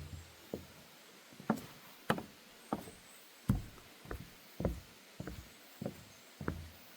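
Footsteps on a wooden boardwalk deck: a steady walking pace of hollow knocks, about one step every half second or so.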